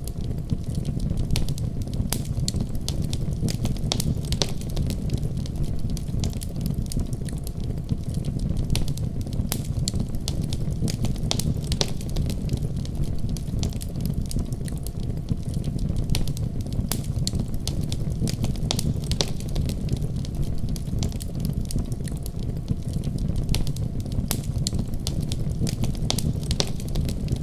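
Wood fire burning steadily: a low continuous rumble of flames with frequent irregular sharp crackles and pops from the burning wood.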